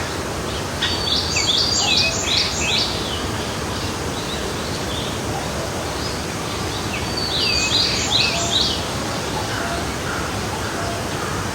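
Forest stream flowing with a steady rush, while a songbird sings two short phrases of quick, high, falling notes: one about a second in, another around eight seconds in.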